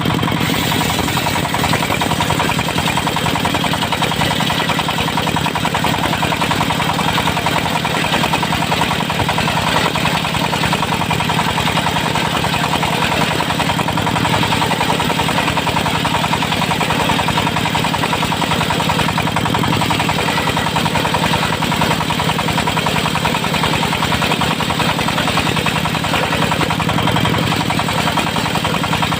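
Engine of a locally built mobile circular sawmill running steadily at a constant speed, with no change in pitch or loudness.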